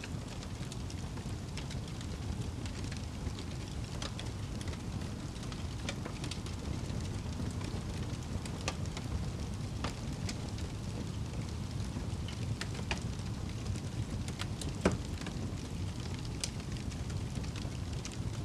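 Wood fire crackling and popping: scattered sharp pops over a steady low rumble, with one louder pop about fifteen seconds in.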